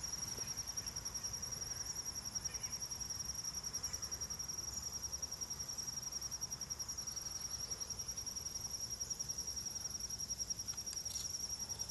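Insects trilling: one steady, high-pitched, finely pulsing trill that keeps on without a break.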